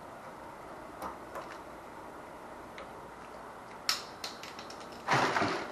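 Scattered light clicks and taps of tools and small parts being handled, with a louder rattling rummage near the end.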